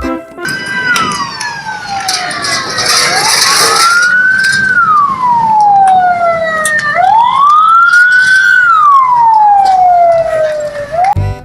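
Emergency-vehicle siren wailing: a single tone sweeping slowly down and back up, about three falls and two rises, each sweep lasting a couple of seconds.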